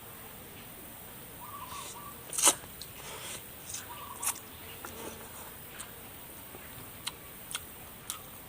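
Scattered wet clicks and smacks of a person eating spicy chicken feet, the loudest about two and a half seconds in, the rest spread out singly every second or so.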